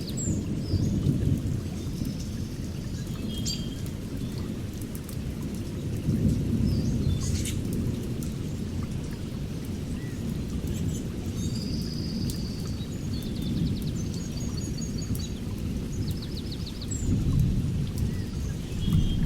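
A continuous low rumble that swells now and then, under high songbird chirps, short rapid trills and brief whistles scattered through it.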